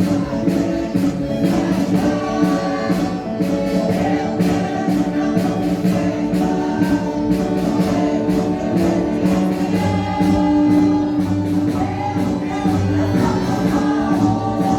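Marcha popular song: a group of marchers singing in chorus over band accompaniment with a steady beat.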